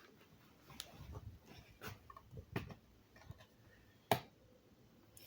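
Scattered light clicks and knocks of objects being handled, with one sharper click about four seconds in.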